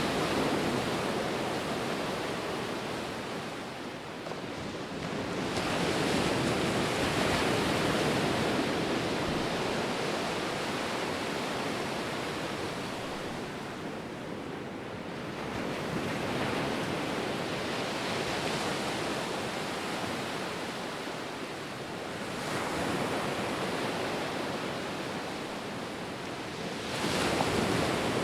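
Ocean surf: waves breaking and washing in, the rush of noise swelling and easing again every several seconds.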